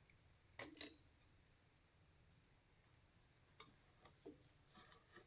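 Light metallic clinks and taps of hand tools and metal parts being handled: one sharper double clink just under a second in, then a few small scattered clicks near the end, otherwise near silence.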